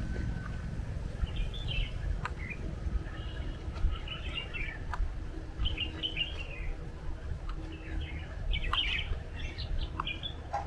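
Birds chirping in short bursts every second or two, with a few sharp clicks, over a steady low rumble.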